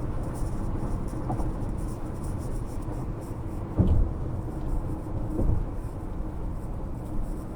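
Steady low rumble of a running vehicle, with soft low thumps about four and five and a half seconds in.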